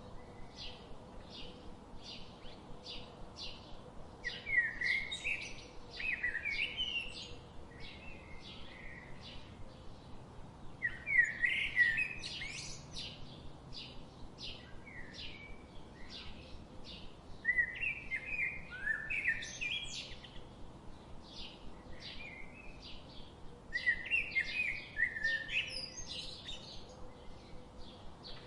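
Songbirds chirping: a steady run of short, high chirps, two or three a second, broken every few seconds by louder warbling song phrases, five times in all.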